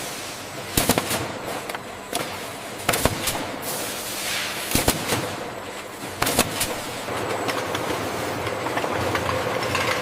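Packaging-line machinery running, with sharp clacks, often in quick pairs, every one to two seconds and a brief rising hiss about four seconds in. From about seven seconds it settles into a steadier machine hum.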